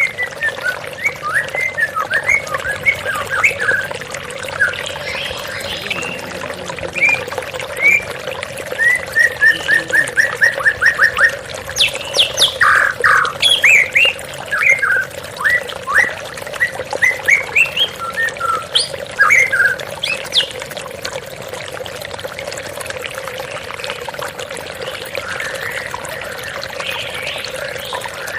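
White-rumped shama (murai batu) singing a varied song of whistled phrases and quick notes, including a fast run of repeated notes, over the steady rush of a waterfall. The song stops about two-thirds of the way through, leaving just the falling water.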